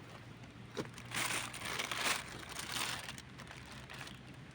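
A sharp snap a little under a second in, then about two seconds of crunching and rustling as forest undergrowth and leaf litter are pushed through and trodden on.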